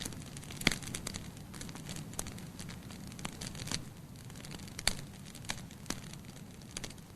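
Wood fire burning in a fireplace: logs crackling with scattered sharp pops over a low steady rush of flame, the loudest pops about a second in and about five seconds in.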